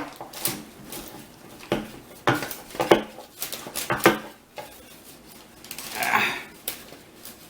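One-handed squeeze bar clamps being handled and worked against wooden blocks: a string of sharp clicks and knocks, then a short scrape about six seconds in.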